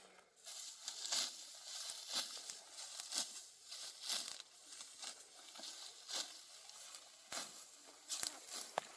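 Dry wheat stalks rustling and crunching in short strokes about once a second, a steady rhythm typical of hand harvesting.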